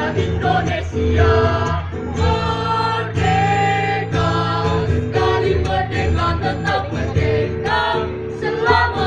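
Group of voices singing together as a choir over a steady instrumental backing.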